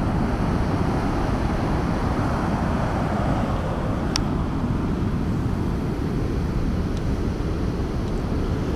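Wind buffeting the microphone over the steady rush of heavy surf breaking on the beach, with a brief high click about four seconds in.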